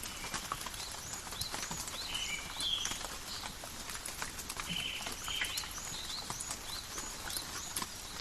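Steady forest rain, with drops ticking close by, and a bird giving short repeated chirps throughout.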